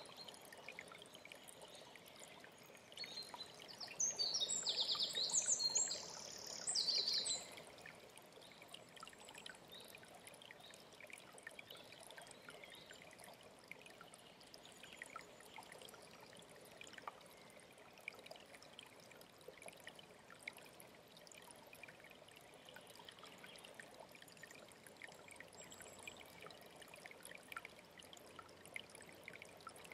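Mountain stream running steadily, with a bird singing loudly for about three seconds a few seconds in, in two phrases, and faint high calls from other birds.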